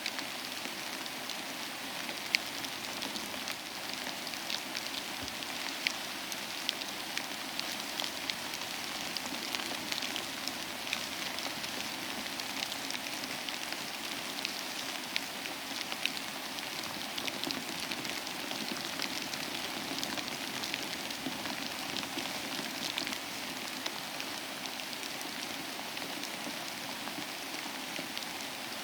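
Steady rain falling, with an even hiss and many individual drops ticking sharply here and there.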